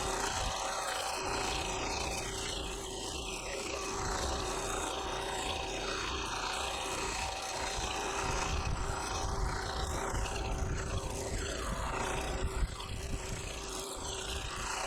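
Three-cylinder Perkins diesel of an old tractor running steadily, warming up after a cold start.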